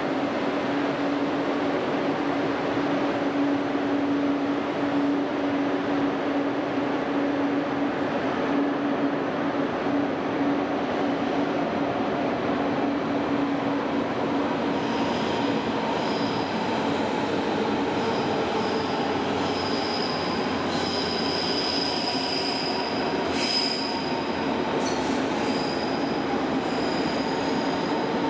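Berlin S-Bahn electric train running through the station with steady rail noise and a low steady tone in the first half. From about halfway a high, on-and-off wheel squeal joins in, with a couple of sharp clicks near the end.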